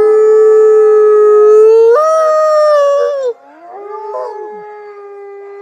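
An animal's long, drawn-out howling calls. A loud, steady howl rises in pitch about two seconds in and breaks off after about three and a half seconds, then a quieter howl holds on.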